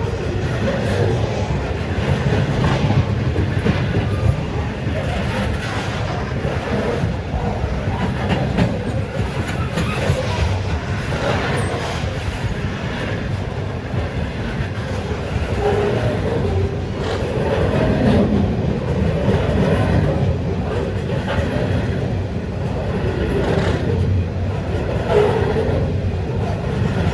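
A train passing close by: a steady, loud rumble of wheels on the rails with repeated clattering clicks, continuing throughout.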